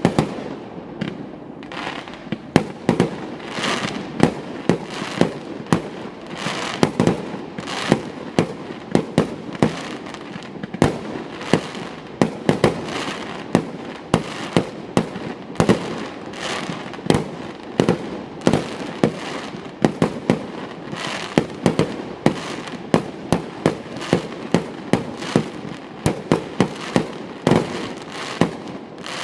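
New Year's Eve fireworks and firecrackers going off continuously: a dense, irregular string of sharp bangs, several a second, over a steady background of crackling and distant explosions.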